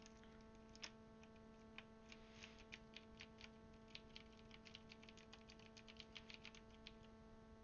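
Faint, quick, irregular clicking of a Das Keyboard's mechanical key switches as keycaps are pressed down onto them, over a steady electrical hum.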